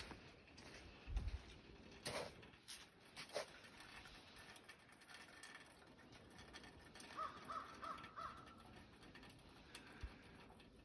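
Faint outdoor quiet with a few soft footsteps, and a distant bird calling four times in quick succession about seven seconds in.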